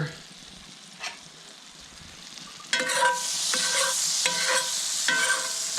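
Butter melting and sizzling in a hot frying pan, starting loud about two-thirds of the way in, while a metal utensil scrapes and pushes it around the pan several times with short ringing scrapes.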